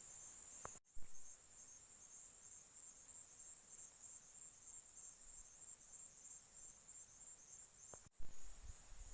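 Crickets trilling in a steady, high-pitched chorus. The sound drops out briefly about a second in and again near the end, and a low rumble comes in near the end.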